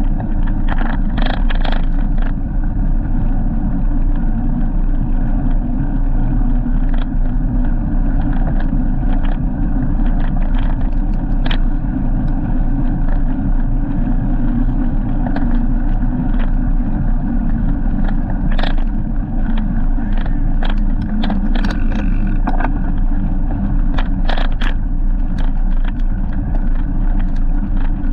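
Steady low rumble of a bike on the move, wind and road noise, with frequent sharp clicks and rattles.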